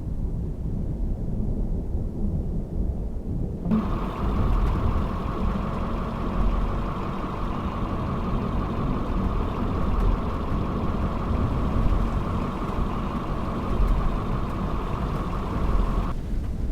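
Steady low rumble of a car driving, heard from inside the cabin. About four seconds in, a steady higher whir or hiss starts abruptly and stops just as abruptly shortly before the end.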